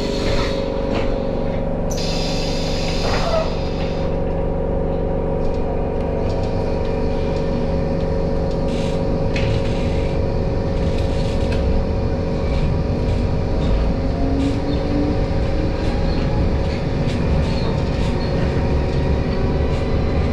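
A tram running along its rails, heard from on board: a steady low rumble with a steady electric hum. About two seconds in, a high screech lasts a second or so and falls in pitch.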